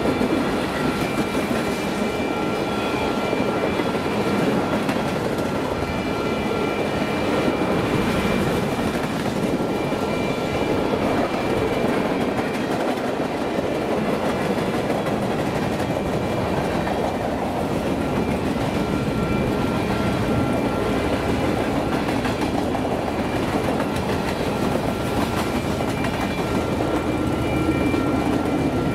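Union Pacific freight train rolling past, its cars rumbling and rattling steadily over the rails, with thin high ringing tones that come and go.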